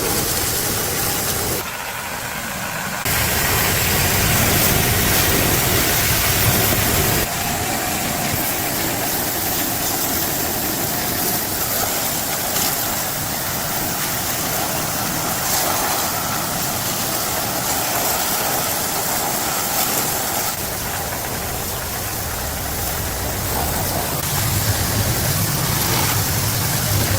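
Machinery running steadily, a noisy mechanical hum that changes character abruptly a few times.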